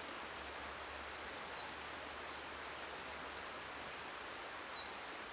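Steady rush of a flowing river, with a small bird giving a short run of high, falling chirps twice, about a second in and again near the end.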